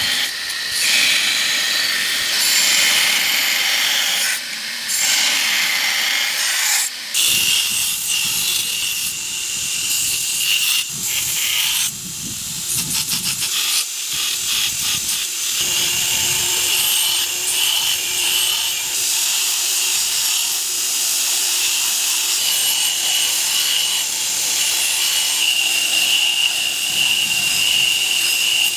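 Power grinder working the steel of a forged knife blade: a loud, hissing grind with a steady high whine, broken briefly a couple of times as the blade is lifted and set back.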